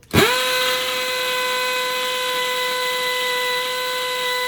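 Electric drill starting suddenly and running at a steady high speed, its motor whine holding one pitch, as it bores into a very hard wall and makes little headway.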